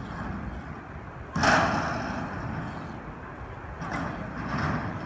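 BMX bike riding a mini ramp: a sudden thud about a second and a half in, then rolling tyre noise that fades and swells again near the end.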